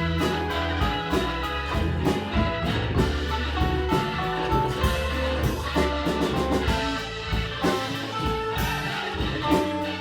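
Live rock band playing an instrumental passage with no singing: guitar lines over bass and a drum kit keeping a steady beat.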